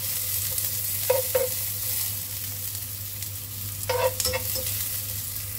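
Sliced shallots and garlic sizzling in hot oil in a non-stick pan, fried until fragrant, with a steady hiss over a low hum. A spatula stirs them, clinking and scraping against the pan twice about a second in and twice near four seconds.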